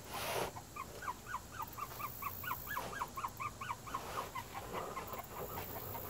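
A bird calling outdoors in a fast, steady series of short, repeated notes, about five a second. A brief rustle of handling comes at the very start.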